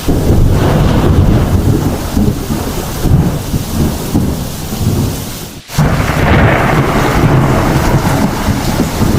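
Heavy thunderstorm: thunder rumbling continuously over steady rain. The sound drops out for an instant just past halfway, then comes back at full strength.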